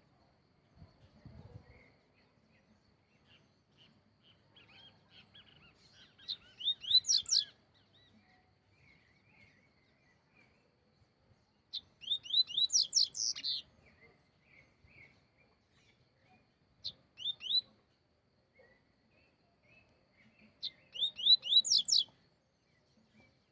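A songbird singing: four loud bursts of rapid, high chirping notes, spaced a few seconds apart, with softer twittering between them.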